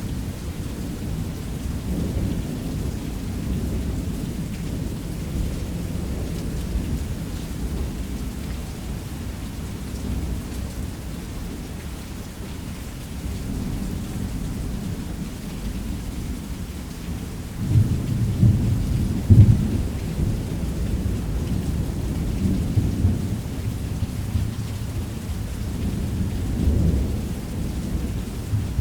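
Thunderstorm: steady heavy rain on a roof under continual low rolling thunder. The thunder swells louder about two-thirds of the way through and again near the end.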